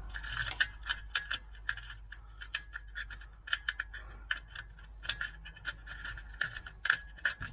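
Irregular metallic clicks and clinks of a wrench working the nuts on a wheelbarrow wheel's axle.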